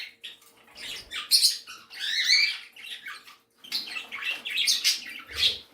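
A flock of small pet parrots, budgies among them, chirping and calling in quick repeated bursts.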